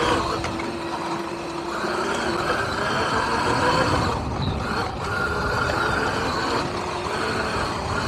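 Electric dirt bike on the move, its motor whine shifting in pitch with speed over steady wind and tyre noise.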